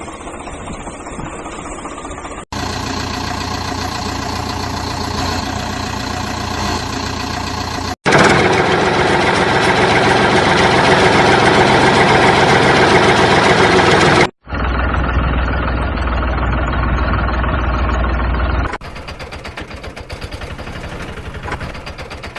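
Engine running, cut abruptly into several different spliced segments; the stretch from about 8 to 14 seconds in is the loudest.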